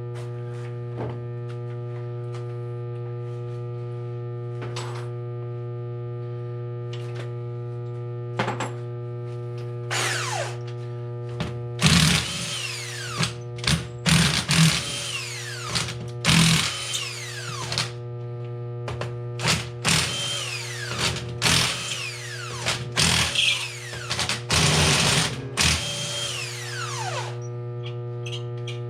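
Power driver running in repeated short bursts, each a second or so long, backing out the engine-case bolts; the motor's pitch falls away as the trigger is released. A steady electrical hum sits underneath.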